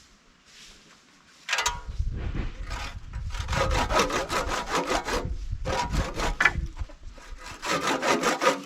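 Wood being sawn by hand in quick back-and-forth strokes. The sawing starts about one and a half seconds in and stops briefly twice.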